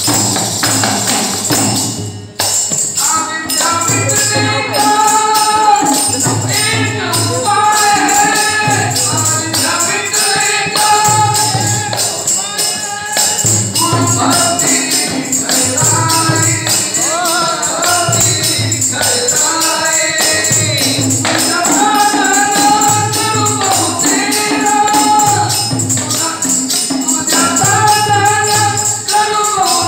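Devotional bhajan singing to ektara accompaniment, with steady jingling hand percussion and a low drum beat about once a second. The sung lines come in about three seconds in, after a brief dip.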